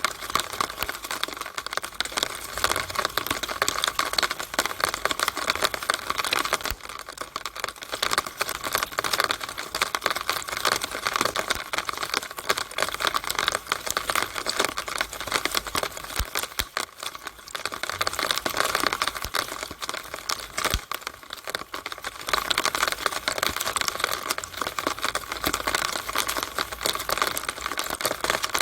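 Rainwater running through a downspout in the rain: a steady, dense crackle of splashing and dripping water, easing briefly a couple of times.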